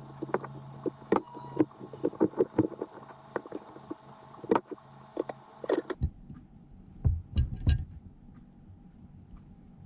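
Light clicks and taps of small objects being handled, over a steady hum. The hum stops suddenly about six seconds in, and a few soft, low thumps follow.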